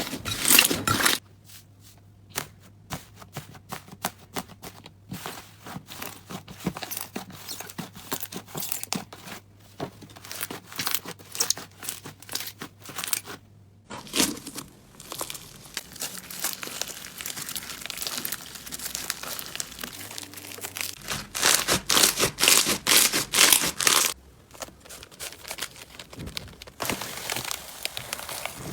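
Slime being squeezed and pressed by hand, giving dense crackling and popping clicks, in several short clips one after another. The crackling is loudest in the first second and again about three quarters of the way through.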